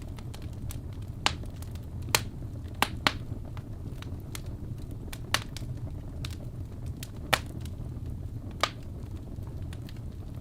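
Wood fire burning in a fireplace: a steady low rumble of flame with irregular crackling, about seven sharp pops standing out among many fainter ticks.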